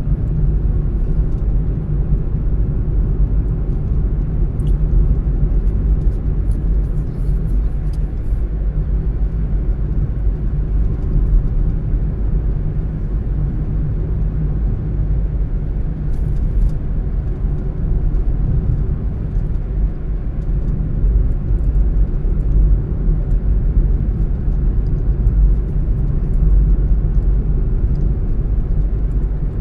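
A car driving along steadily: a constant low rumble of road and engine noise, with a few faint light ticks.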